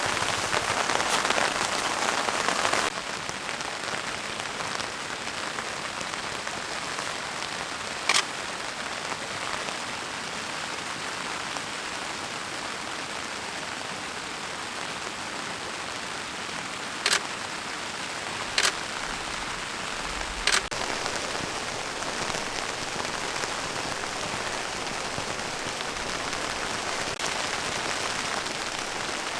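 Steady rain falling, an even hiss with a few sharp taps of single drops standing out. The rain is louder for about the first three seconds, then drops suddenly to a quieter, steady level.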